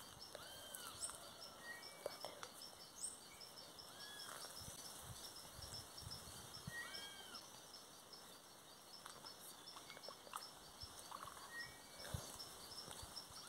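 Quiet outdoor ambience with a wild bird repeating a short rising-and-falling whistled call every few seconds, over a faint, fast, even pulsing high in the background.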